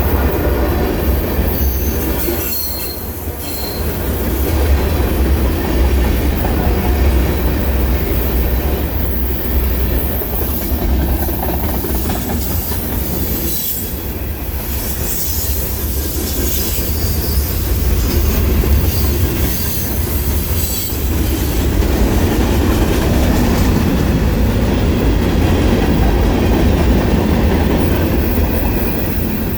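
Train cars rolling past on the rails: a steady, loud rumble of wheels on track, with a brief high wheel squeal about three seconds in.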